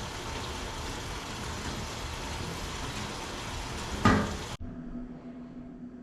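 GE stacked washer/dryer combo's washer running its wash cycle, a steady rushing noise of water and motor. About four seconds in there is a loud knock, then the sound cuts abruptly to a quieter background with a low steady hum.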